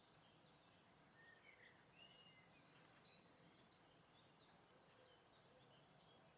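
Faint, scattered chirps and short calls of small garden birds over a steady outdoor background hiss.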